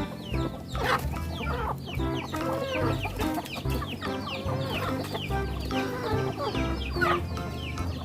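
Chickens clucking and calling, many short calls overlapping, over background music with steady low notes.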